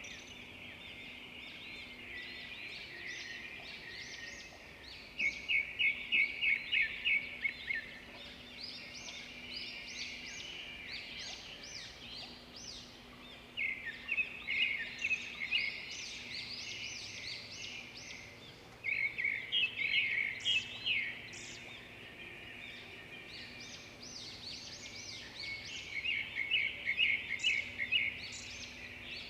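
Many songbirds chirping and singing together, with one bird loudly repeating a quick run of rapid notes four times, about every six or seven seconds.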